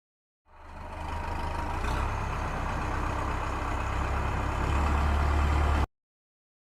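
Tractor engine running steadily, fading in quickly and growing louder near the end before cutting off abruptly.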